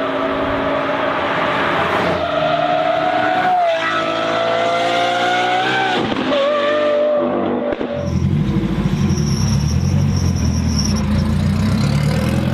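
Modified car engine revving high under acceleration, its pitch slowly climbing and dropping sharply twice, then an abrupt change to a low, rough exhaust rumble.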